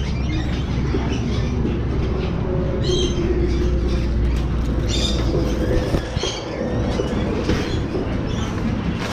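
Birds squawking in short calls several times over a steady low rumble, which cuts off about six seconds in.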